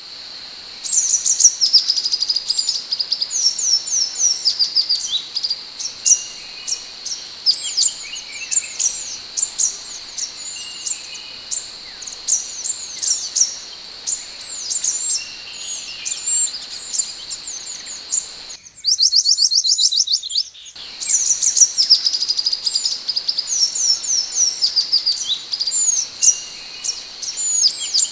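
Scarlet minivet (sepah hutan) calling in a fast, continuous run of short, sharp, high chirps, over a steady thin high tone. About two-thirds of the way in, a two-second burst of a faster, even trill is cut in.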